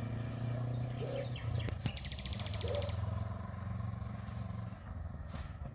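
An engine running steadily with a low hum, with a bird giving a quick rapid trill about two seconds in and a couple of sharp clicks.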